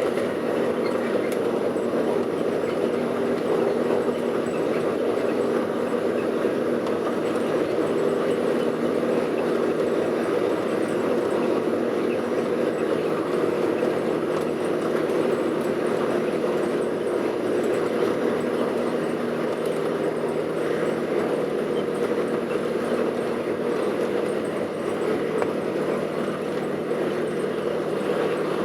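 Steady cabin noise inside an Airbus A380 taxiing at low power: an even rush of engines and air conditioning with a few low steady hum tones.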